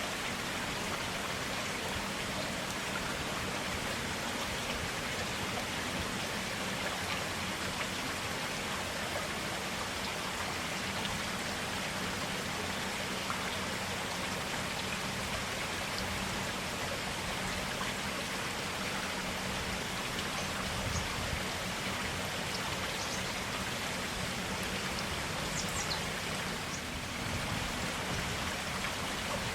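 A forest stream flowing steadily, an even rush of running water.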